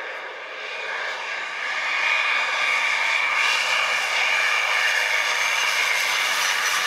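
Cessna 172's piston engine and propeller running steadily in flight, growing louder over the first two seconds and then holding an even drone.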